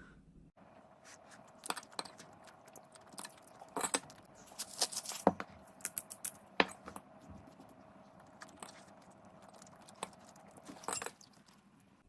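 Light metallic clinks and clicks of utensils and dishes being handled, scattered and irregular with a busier cluster in the middle, over a faint steady hum that stops near the end.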